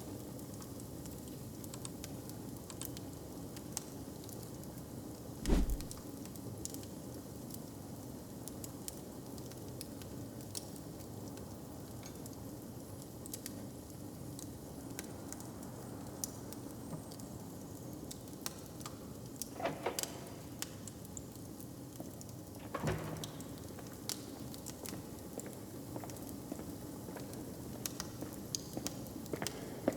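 Log fire crackling, with scattered sharp pops over a steady low rush. A dull thump about five seconds in, and a few fainter knocks later on.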